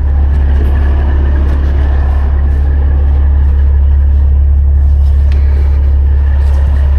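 Large diesel engine idling steadily, a loud, even low drone.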